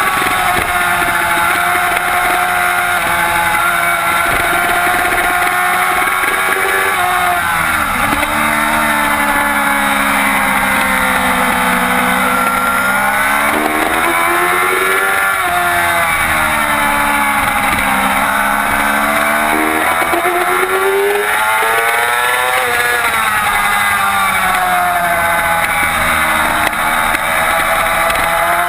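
2007 Yamaha YZF-R6's inline-four engine at high revs, its pitch climbing under acceleration and falling sharply on braking and downshifts, several times over, as the bike laps a race track. A steady rush of noise runs underneath.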